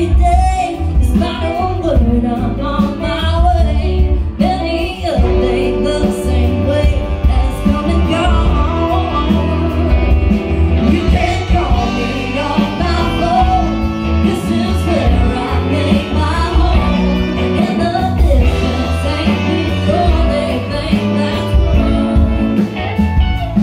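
Live band music: a woman singing lead over electric bass, drums, Hammond organ and guitar, with a steady beat.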